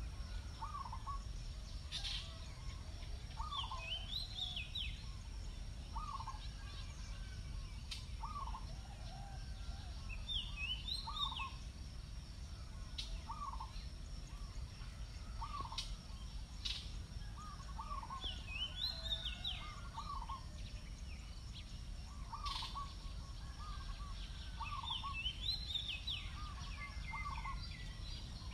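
Birds calling outdoors: one gives a short note about once a second, while another sings a quick run of higher notes every six to eight seconds, over a low rumble of wind.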